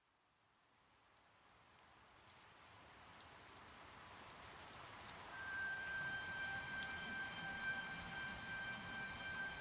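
Rain fading in from silence, a steady hiss with scattered drop ticks, growing louder throughout. About halfway in, a held high musical note enters over the rain.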